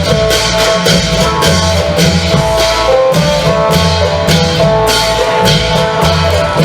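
Isan klong yao long-drum band playing with an amplified phin (northeastern Thai lute) carrying the melody. Drums keep a steady, fast, driving beat under the lute's sustained notes.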